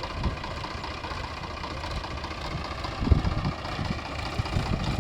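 Sonalika tractor's diesel engine idling steadily, with a heavier low thump about three seconds in.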